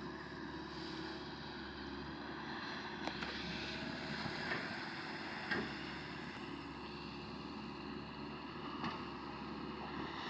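Diesel engine of an amphibious swamp excavator running steadily, with a few faint clicks and some wind on the microphone.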